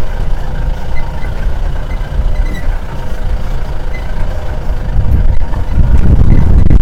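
Safari vehicle driving: a steady low engine and road rumble that grows louder about five seconds in.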